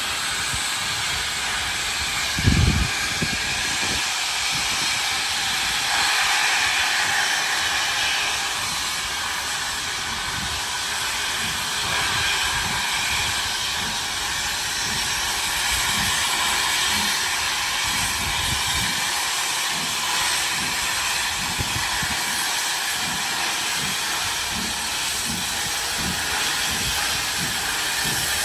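Steam locomotive 3526 standing with steam hissing steadily. There is a brief low thump about two and a half seconds in.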